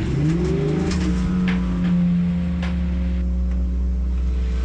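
Race car engine idling steadily, heard from inside the car, with a brief rise in pitch in the first second before it settles.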